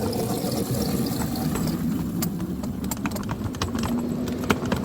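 A small 7-1/4 inch gauge train, pulled by an electric locomotive and loaded with a ton of wood pellets, rolling along the track. The wheels and cars rattle and click irregularly over a steady low motor hum.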